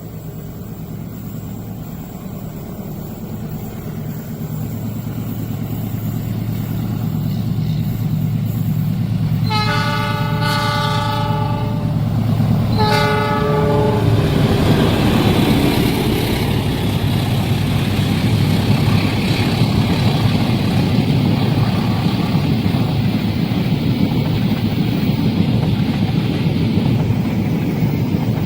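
A train approaches with its locomotive engine hum growing louder, then the locomotive sounds its chord horn: a long blast and a short one a second later. The train then passes close by, its wheels rumbling over the rails.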